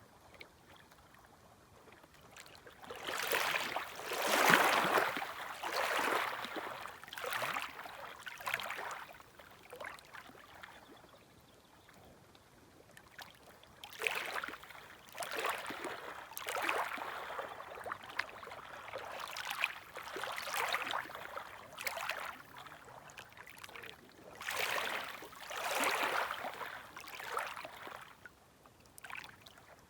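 Small, gentle waves washing and lapping at the shore, in three spells of surging wash with quieter lulls between them.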